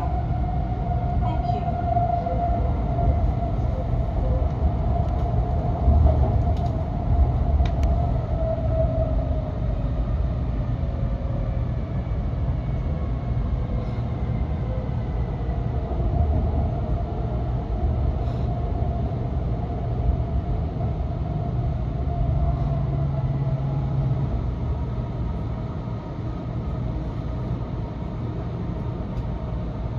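Cabin running noise of a Nishi-Kyushu Shinkansen Kamome (N700S) train at speed: a steady low rumble with a faint whine that drifts down in pitch. The noise eases a little near the end as the train runs through a station without stopping.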